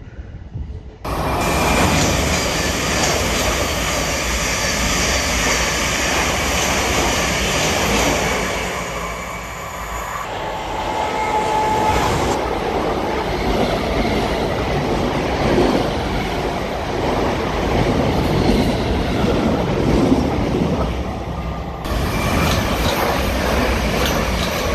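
Electric multiple-unit trains passing close at speed: first a green Southern unit, then a red Gatwick Express Class 387. Their wheel and rail noise starts abruptly about a second in, and the red train takes over near the end.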